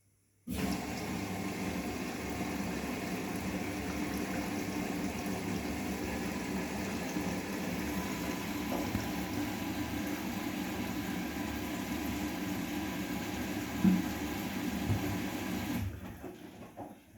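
Bosch WGA25202TR washing machine with water rushing through it, a steady sound that starts abruptly about half a second in and dies away near the end.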